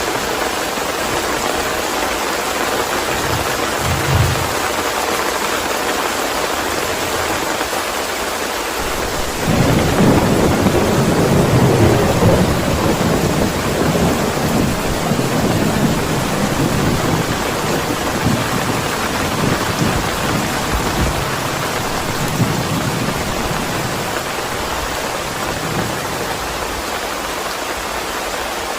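Steady heavy rain, with a roll of thunder that starts about nine seconds in, is loudest for a few seconds and then dies away in smaller rumbles.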